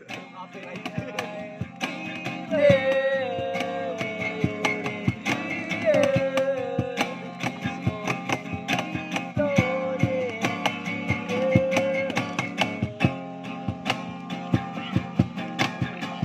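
Acoustic guitar strummed in a steady rhythm, with a voice singing long held notes that slide down at the ends of phrases over the first two thirds. The voice drops out near the end while the strumming carries on.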